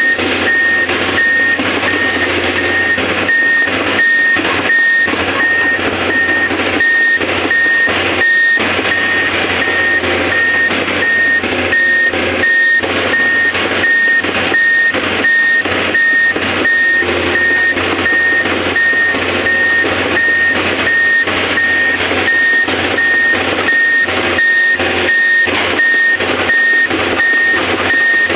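Excavator's travel alarm beeping steadily in an even repeating pattern, over the steady noise of the machine running.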